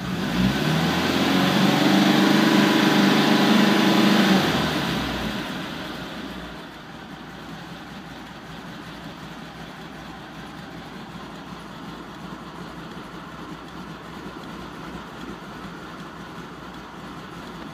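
Porsche 914's air-cooled flat-four engine revved up sharply and held high for a few seconds, then dropping back to a steady warm idle at about 1,000 rpm.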